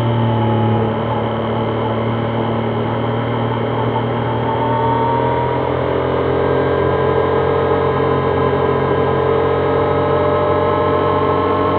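Triumph Trident 660's inline three-cylinder engine running as the motorcycle rides along, steady at first and then rising gently in pitch through the second half as the bike gathers speed.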